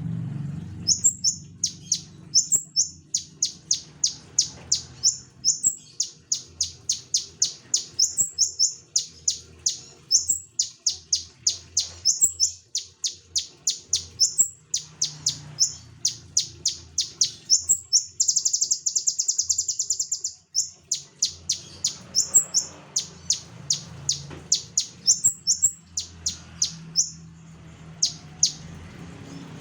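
Konin songbird singing in full voice ('gacor'): long runs of short, quickly repeated high notes, some ending in a small upward flick, broken by a fast dense trill about 18 seconds in.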